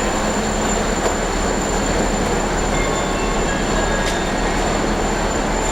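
A passenger train running at speed, heard from inside the carriage as a steady, even rumble and rush of wheel and track noise.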